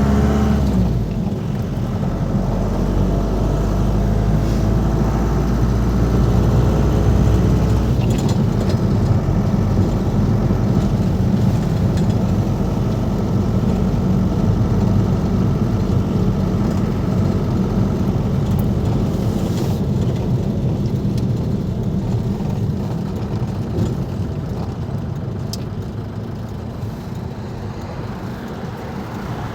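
Ford Transit Mk5's 2.5-litre diesel 'banana' engine running as the van is driven, a steady low drone whose note shifts about a second in and again around eight seconds in.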